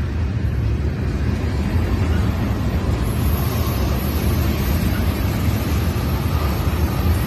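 Loaded ethanol tank cars of a freight unit train rolling past close by: a steady, loud rumble of steel wheels on the rails.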